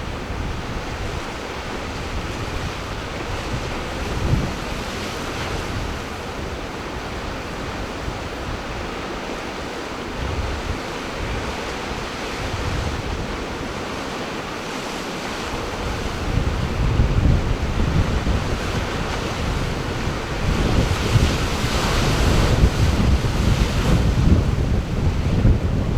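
Ocean surf washing ashore, with wind buffeting the microphone in gusts that grow stronger about two-thirds of the way through.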